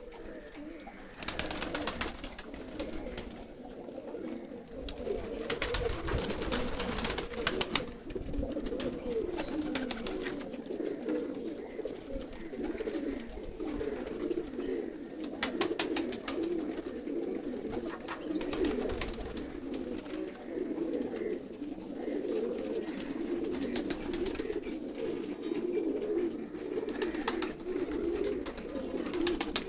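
Several domestic pigeons cooing continuously, their low rolling coos overlapping. A few short bursts of clicking or rustling noise break in, around 1.5 s, 7 s and 15 s.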